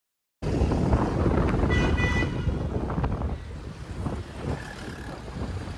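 Wind buffeting the microphone over a low rumble, starting abruptly under half a second in, with a brief high tone about two seconds in.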